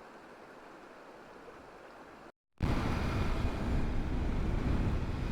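Small snowmelt creek rushing steadily. About two and a half seconds in there is a sudden cut to much louder wind and road rumble from a KTM 890 Adventure R motorcycle under way.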